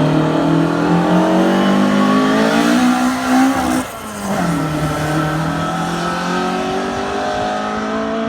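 Rally car engine pulling hard, its pitch climbing steadily. About four seconds in it drops briefly in pitch and loudness, then climbs again.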